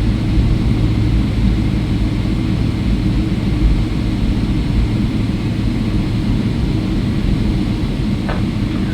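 Steady low rumble inside the cabin of a Boeing 777-300ER on the ground just after landing, its engines and rolling gear making a constant drone with a low hum.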